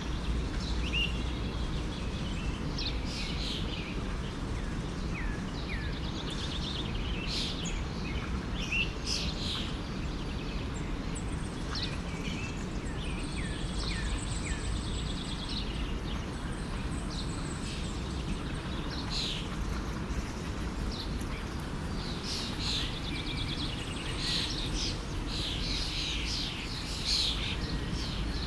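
Songbirds chirping and trilling in short, repeated calls over the steady rush of a flowing stream. The birdsong grows busier near the end.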